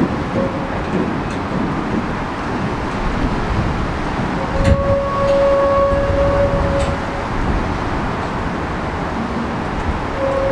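Freight train of open box wagons rolling past close by: steady rumble and clatter of the wheels on the rails, with a brief high-pitched squeal about halfway through.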